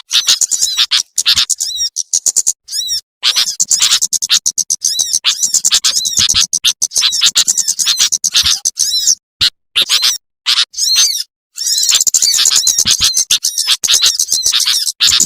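Bird-lure recording of small birds, sunbirds among them, calling in rapid high-pitched chirps and twitters. The calls are dense and loud, broken now and then by abrupt short silences where the recording is cut.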